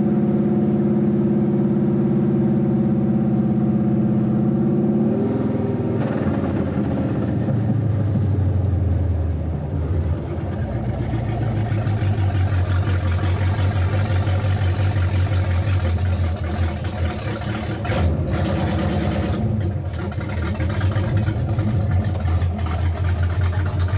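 1966 Pontiac LeMans's engine with open steel headers and a lumpy camshaft, heard from inside the car: steady at cruising speed, then the revs drop about five seconds in and it settles into a low, uneven, loping run as the car slows.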